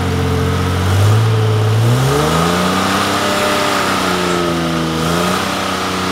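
A 4x4 SUV engine revs under load. Its pitch climbs about two seconds in, dips near five seconds and rises again. A steady high whine joins from about two seconds in.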